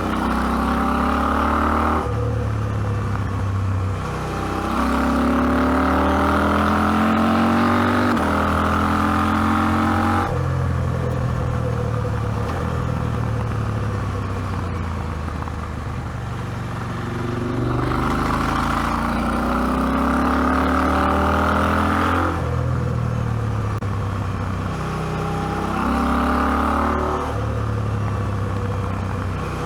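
KTM 790 Adventure's parallel-twin engine running under throttle, the revs climbing through each gear and dropping back at each shift or throttle lift, about half a dozen times.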